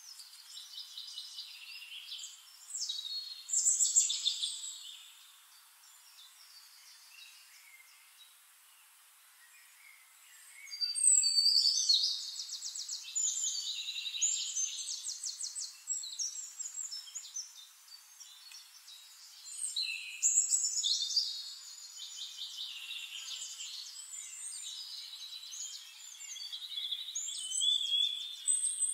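Songbirds chirping and trilling in a nature ambience: rapid pulsed trills and twitters come in bursts, with a lull of a few seconds about a third of the way in before the calling picks up again.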